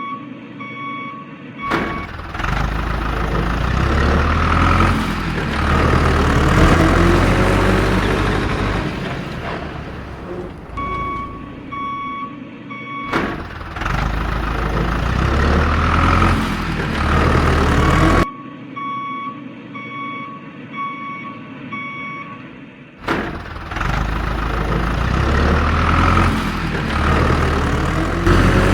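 A heavy vehicle's reversing alarm beeping steadily, alternating with its engine running loudly with rising and falling revs. The beeping and engine stretches repeat three times.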